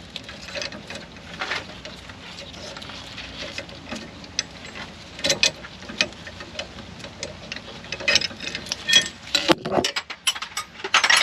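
Scattered metal clicks and clinks from a brake-line flaring tool being handled and backed off after forming a flare on the line, with a busier run of clicks near the end.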